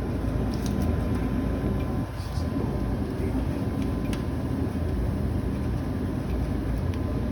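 Steady low rumble of a running residential gas furnace, with a faint steady hum and a few light ticks.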